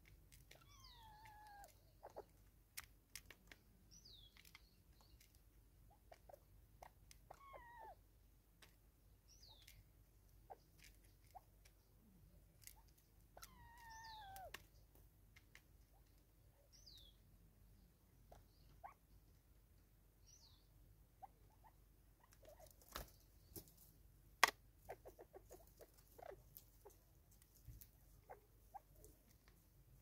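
Faint bush ambience: birds give several short, falling whistled calls, and scattered sharp taps and clicks come from spurfowl pecking seed out of a plastic bottle feeder. The taps grow thicker in the last third, and the loudest single tap comes about twenty-four seconds in.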